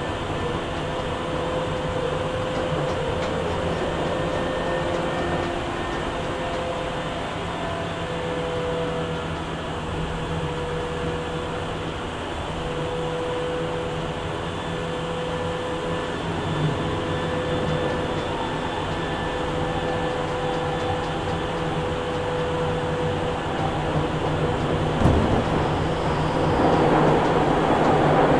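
Tokyu 8500 series electric train with Hitachi traction motors heard from inside the car while running: a steady rumble of wheels on rail with a steady whine. About 25 seconds in there is a single thump, and the running noise then grows louder.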